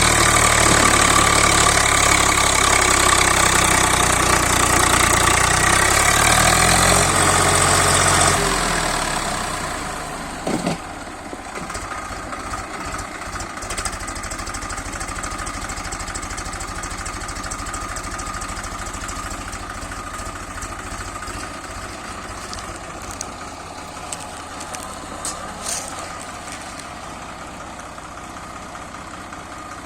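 Swaraj tractor's diesel engine running hard, then dropping back to a quieter, steady idle about eight seconds in. A single knock comes shortly after the drop.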